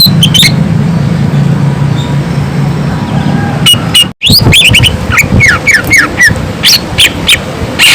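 Cucak ijo (green leafbird) singing. After a low steady hum and scattered chirps, a fast run of sharp, falling whistled notes starts a little past halfway, with a brief break in the sound about four seconds in.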